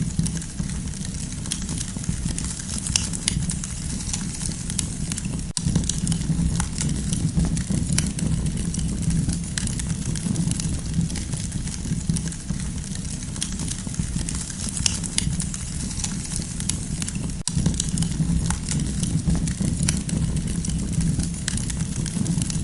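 Campfire burning, with frequent small sharp crackles and pops over a steady low rumble of the flames. The sound cuts out for an instant twice.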